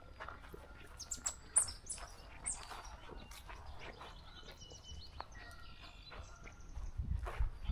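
Several small songbirds chirping and calling, with many short chirps and quick down-slurred whistles overlapping. A few low thuds come near the end.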